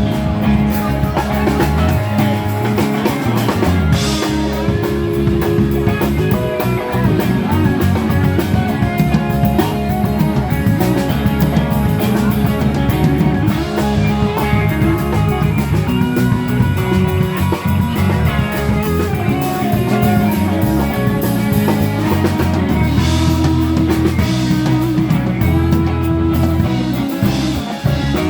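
Live band playing an instrumental rock passage: guitar over bass and a drum kit keeping a steady beat.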